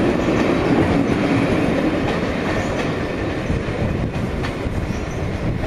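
Passenger coaches of a departing train rolling past on the track, wheels rumbling and clicking over the rails, the sound easing as the last coach draws away.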